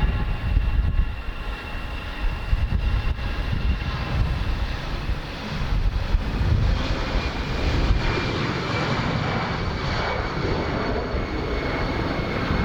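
Airliner engines running: a steady low rumble under a high turbine whine, the rushing noise building up about halfway through.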